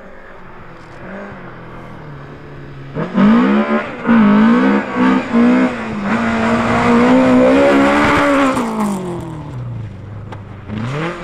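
Rally car engine on a snowy stage: quiet at first, then revving hard about three seconds in with several brief lifts of the throttle, holding high revs, and falling away as the car passes. Another engine revs up near the end.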